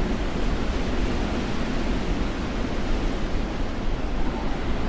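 Strong snowstorm wind, a steady rushing noise with a low rumble of wind buffeting the microphone.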